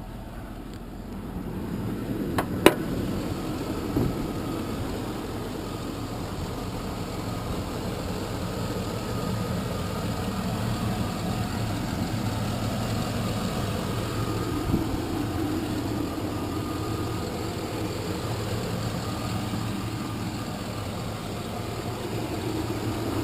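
Chevy 2500HD pickup's 6.0-liter V8 idling steadily with a slight exhaust leak, which the owner says is about gone. A single sharp click comes about two and a half seconds in.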